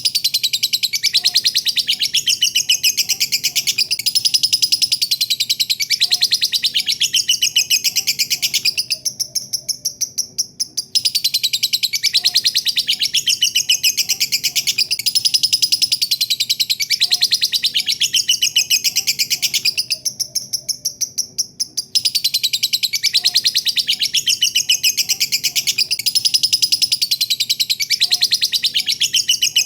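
Lovebird singing its long 'ngekek' chatter: rapid, high-pitched chattering notes in long bouts of about ten seconds, with brief pauses about ten and twenty seconds in.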